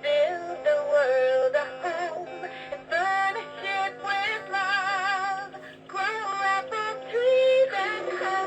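Electronic tune with a synthetic, voice-like lead that warbles with vibrato on its held notes, over a steady low hum.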